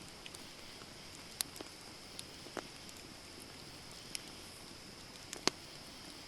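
Wood campfire crackling: a steady low hiss with a handful of sharp, irregular pops, the loudest about five and a half seconds in.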